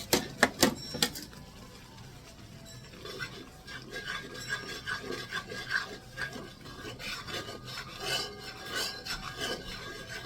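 A spoon scraping and rubbing against the inside of a cooking pot of curry, after a quick run of about five sharp knocks in the first second.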